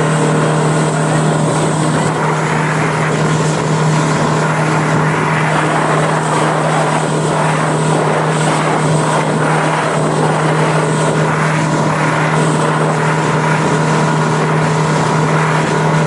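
A motorboat engine running at a steady, unchanging pitch, with a constant hiss of water and wind over it.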